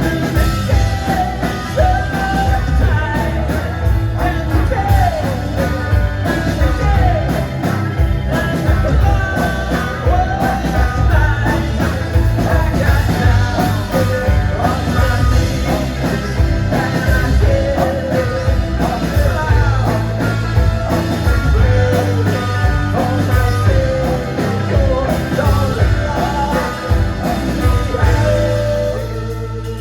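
Live rock band playing with sung and shouted vocals over a driving drum beat. Near the end the drums and voice stop, leaving a single held chord ringing on.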